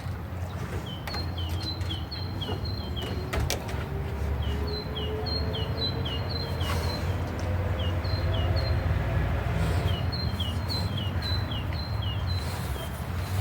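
A small bird calling over and over with short, high, down-slurred chirps, about two a second, over a steady low rumble.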